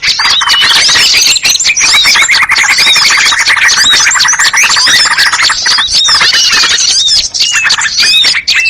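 Bird-lure (pikat) recording: a loud, dense chorus of small songbirds calling at once, quick rising and falling chirps overlapping throughout, with a harsh, buzzy chatter through the middle.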